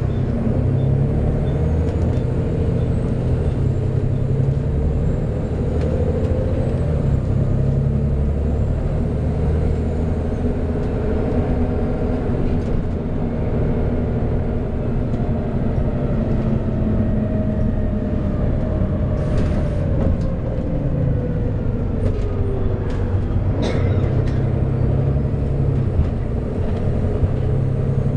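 Volvo B7TL double-decker bus's six-cylinder diesel engine running under way, heard from on board, its note sliding down as the bus eases off about two-thirds of the way in. A brief hiss comes twice near the end.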